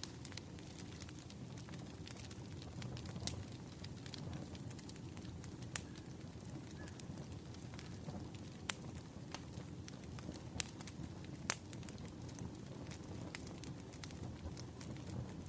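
Wood fire burning: a steady low rush with scattered sharp crackles and pops, a few louder snaps among them.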